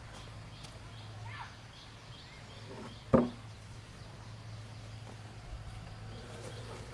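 A single sharp wooden knock about three seconds in, like a piece of wood struck or dropped during carpentry, over a steady low hum and faint outdoor ambience.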